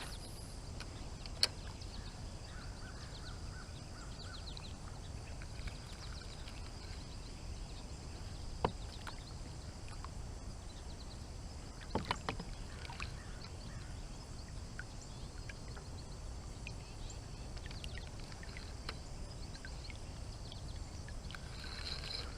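Quiet outdoor ambience aboard a kayak on a pond: a steady low rumble of wind and water, with a few faint sharp knocks, about a second and a half in, near nine seconds and around twelve seconds. Faint bird chirps in the first few seconds.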